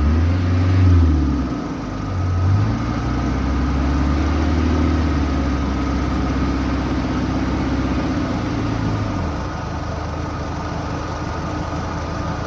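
Four-wheel-drive's engine revved twice in quick bursts, then held at steady higher revs for several seconds before dropping back to a low idle near the end, as the vehicle tries to reverse out of a hole it is stuck in.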